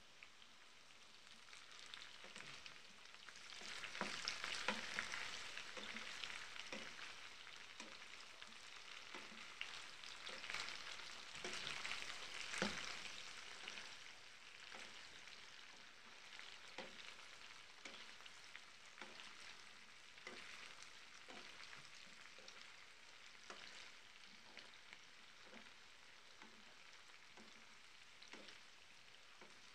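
Potato wedges frying in oil in a pan, with a steady sizzle, stirred and turned by a slotted spatula that scrapes and taps against the pan. The sizzle swells louder twice in the first half as the potatoes are turned.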